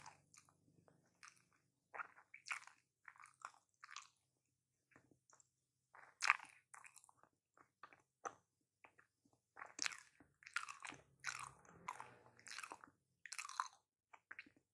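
Close-miked eating of a homemade footlong hot dog in a bun: bites and chewing as short, irregular crackly mouth sounds, busiest near the end.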